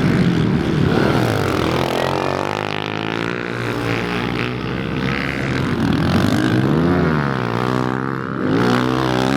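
Small pit bike engines running and revving, their pitch climbing and dropping repeatedly, with quick revs about seven and nine seconds in.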